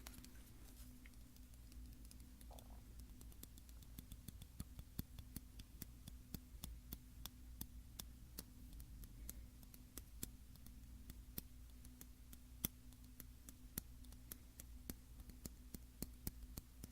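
Light, random tapping on a small object: soft, sharp taps at an irregular pace, sparse at first and more frequent from a few seconds in.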